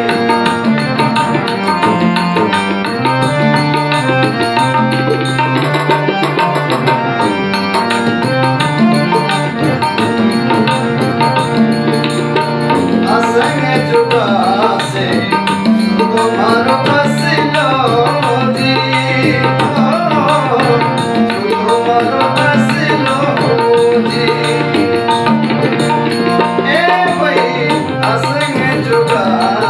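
Rajasthani devotional bhajan played live: a steady hand-drum rhythm under sustained melody, with a man singing over it in places.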